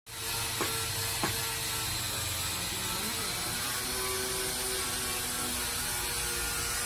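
Steady mechanical hum of running machinery with several steady tones, and two sharp clicks about half a second apart near the start.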